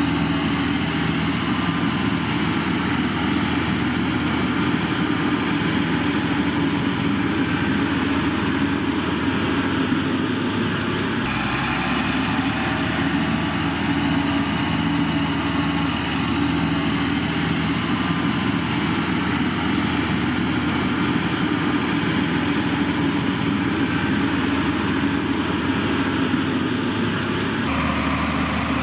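Diesel engines of heavy earthmoving machines, a bulldozer and dump trucks, running steadily. The engine sound changes abruptly twice, about a third of the way in and near the end.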